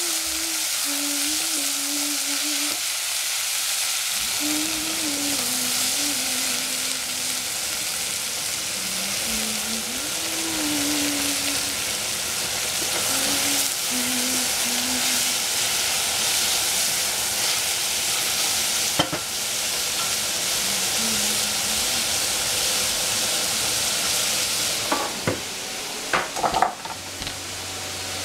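Shredded cabbage, celery and colored peppers sizzling as they are stir-fried in a stainless steel saucepan, stirred with a wooden spatula. A few sharp knocks near the end.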